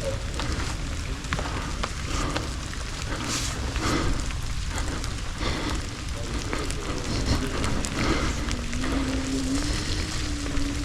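Wind rumbling over the microphone and crackling tyre noise from an electric unicycle riding a wet dirt trail. About eight seconds in a low whine appears, steps up in pitch and holds steady.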